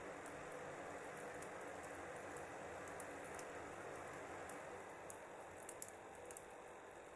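Wood fire crackling: a steady hiss with scattered sharp pops and snaps from the burning wood, a couple of louder pops near the end as it grows slightly quieter.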